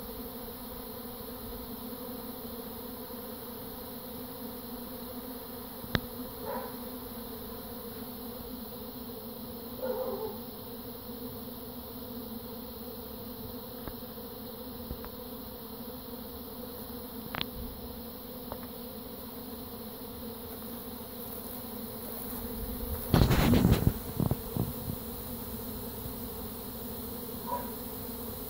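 A swarm of honey bees leaving the hive, a dense, steady buzzing drone of thousands of wings. About two-thirds of the way through, a louder burst of rustling and thumping briefly covers it.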